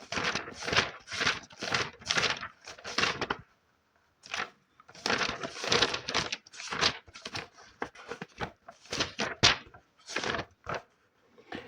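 Book pages rustled and scratched close to the microphone in quick, crisp strokes, about two or three a second, with a short pause about four seconds in.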